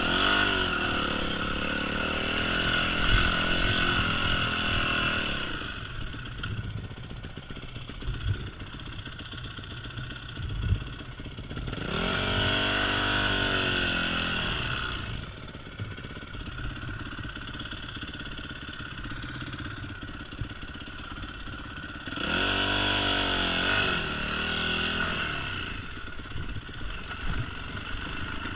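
Yamaha YZ250F four-stroke single-cylinder dirt bike engine revving hard in three bursts, pitch climbing and falling, near the start, about twelve seconds in and about twenty-two seconds in. Between the bursts it runs at a lower, quieter pace, with a few sharp knocks.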